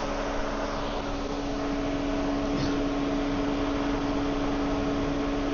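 Cadillac CTS running, checked for leaks after new O-rings and a seal: a steady mechanical hum with a constant whine.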